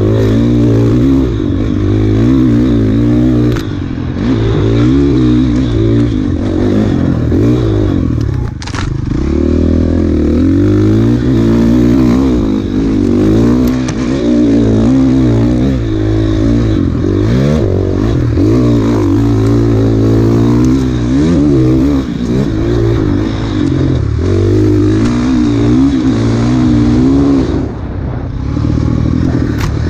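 Enduro dirt bike engine ridden hard off-road, its revs rising and falling constantly with throttle and gear changes. There is one sharp knock about nine seconds in.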